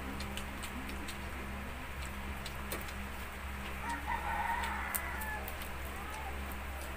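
A rooster crows once in the background, about four seconds in, over a steady low hum. Scattered sharp clicks and crackles come from a knife cutting through a crispy deep-fried pork knuckle.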